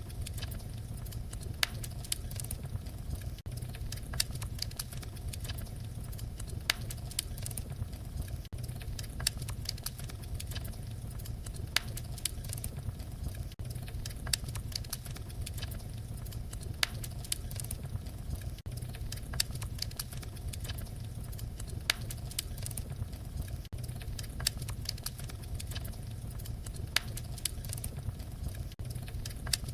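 Wood fire crackling: a steady low rumble of burning with many small crackles and a louder sharp pop every few seconds.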